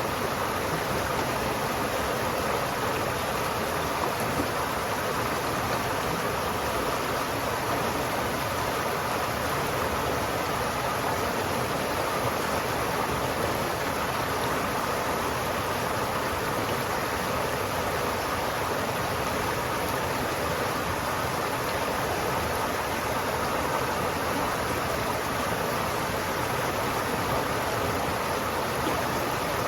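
River water flowing in a steady, even rush, with no change in level throughout.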